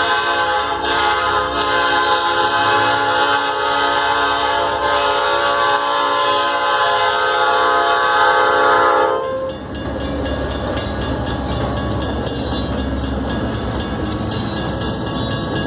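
Locomotive air horn sounding one long chord, held for about nine seconds and cutting off sharply, then the low rumble of the freight train rolling over the crossing. Mechanical crossing bells ring in a fast, even rhythm throughout.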